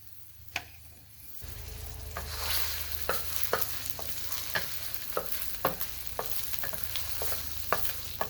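Minced garlic and ginger sizzling in hot avocado oil in a wok, the sizzle starting about a second and a half in, with a stirring utensil clicking against the wok about twice a second.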